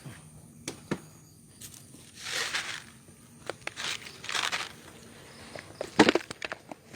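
Plastic bag of dry cat food rustling and crinkling in short bursts as it is handled, with a few sharp knocks; the loudest knock comes about six seconds in.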